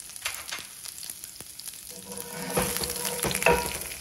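Chopped garlic and curry leaves sizzling in hot oil with mustard seeds and urad dal in a cast-iron skillet, a steady frying crackle with many small pops. It grows louder about halfway through.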